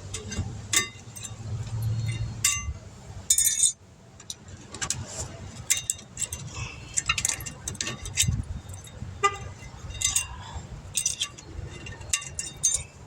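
Irregular metallic clinks and clatter of hand tools and brake parts being handled during a brake pad job, over a low rumble.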